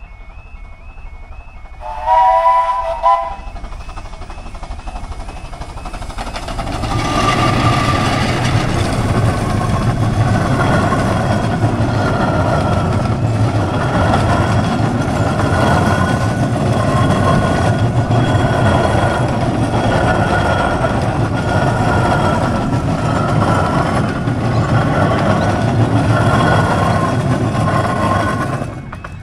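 A level crossing's warbling alarm sounds while a Romney, Hythe & Dymchurch Railway miniature train gives two short warning blasts about two seconds in. The train then rumbles and clatters over the crossing for about twenty seconds, stopping abruptly near the end.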